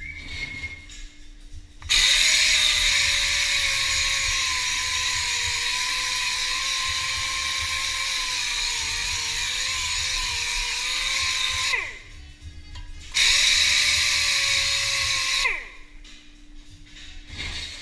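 A high-speed power tool running in two bursts with a steady whine. It spins up about two seconds in, runs for about ten seconds, then winds down. After a short pause it runs again for a couple of seconds and winds down near the end.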